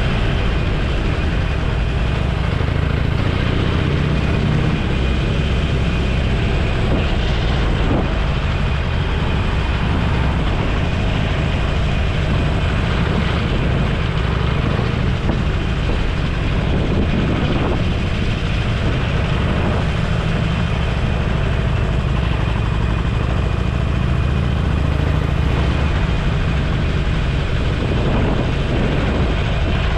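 Motorcycle being ridden at a steady road speed: a continuous engine drone mixed with the rush of wind on the microphone.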